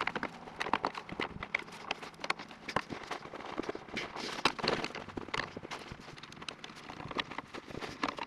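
Irregular light clicks, taps and rustles of hands and materials working a repair patch onto a muffler.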